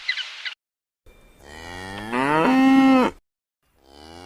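A cow mooing: one long moo about a second in that rises in pitch and then holds steady, and a second moo starting near the end. Short rapid bird calls cut off about half a second in.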